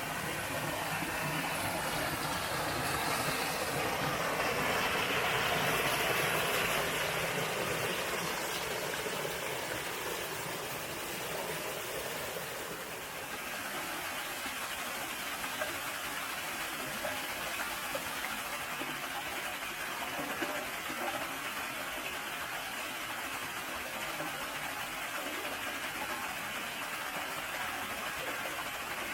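Mountain valley stream rushing over rocks: a steady, even rush of water, fuller and louder for the first several seconds, then settling to a thinner, steady rush from about thirteen seconds in.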